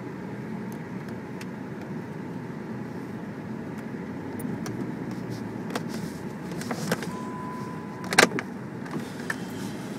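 Jeep engine running with a steady low rumble, with scattered knocks and rattles from about six seconds in. A short steady beep ends in one sharp knock a little after eight seconds.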